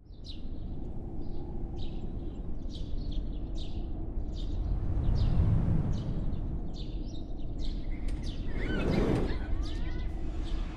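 Birds chirping in short repeated calls over a steady low rumble. The rumble swells into a sweeping whoosh near the end.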